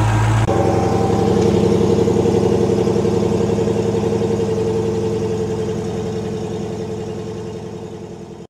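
Car engine idling with a steady, rapid throb, fading out gradually toward the end. A held low tone cuts off about half a second in as the engine sound takes over.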